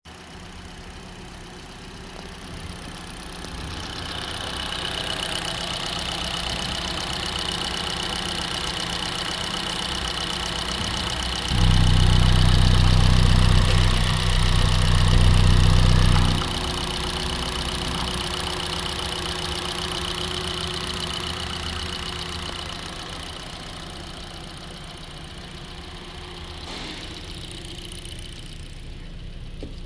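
A 2023 Hyundai Tucson's 2.0-litre petrol engine running at idle, with a steady high whine over it. About a third of the way through it grows much louder and deeper for about five seconds, then settles back. A sharp knock comes right at the end.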